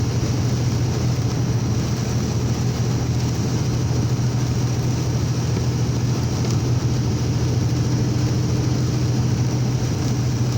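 Steady engine drone and road noise heard inside a vehicle cab driving through heavy rain, with an even hiss of rain and wet tyres over a low hum.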